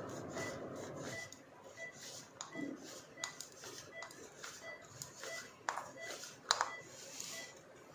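Creaky sound of a bone screw being tightened during knee surgery, over a steady beep repeating about twice a second, with a few sharp clicks near the end.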